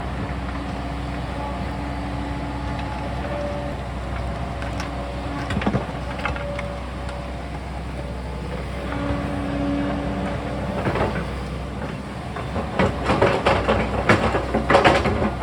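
Sany excavator's diesel engine running steadily, with a hydraulic whine that comes and goes as the arm works. Near the end there is a run of knocks and scrapes, as from the bucket working against rock.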